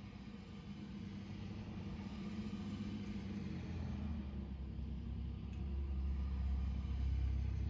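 A car engine running and getting steadily louder, with a deep low rumble building from about halfway.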